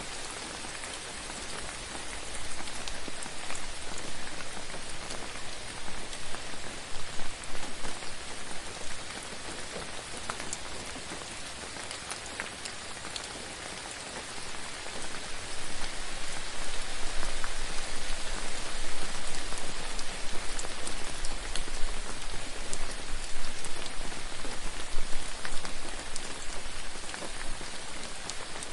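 Steady rain with many sharp, close drop ticks, growing heavier in two long swells.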